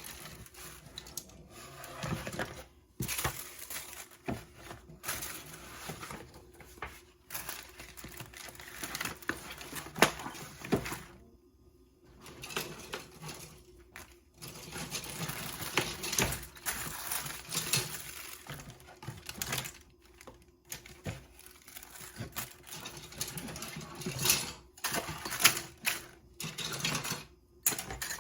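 Handling of a cardboard plastic-model kit box and its contents: irregular rustling, clicks and taps, with a few brief pauses.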